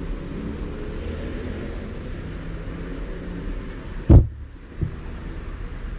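A sharp, very loud thunderclap from a close lightning strike about four seconds in, with a smaller crack just after, over a steady low rumble of storm noise.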